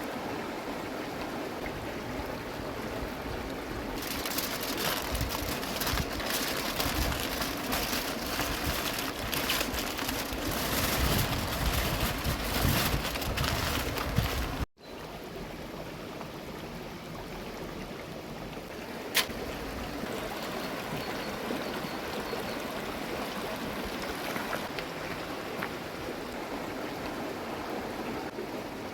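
River water running steadily. It gets louder and hissier about four seconds in, cuts off abruptly about halfway through, then goes on more quietly, with a single sharp click a few seconds later.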